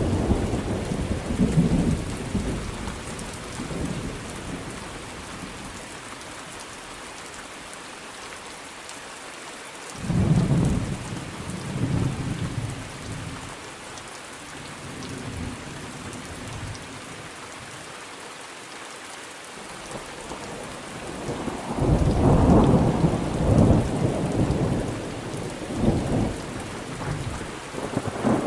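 Steady rain with thunder rolling over it: a rumble fading out at the start, another about ten seconds in, and a longer, louder peal of rolling thunder in the last third.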